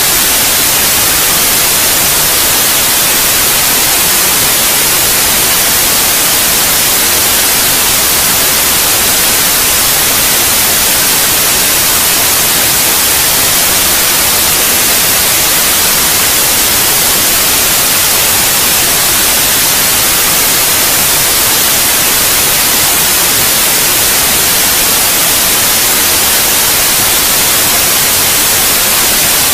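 Steady white noise: a loud, even hiss that never changes, strongest in the high end.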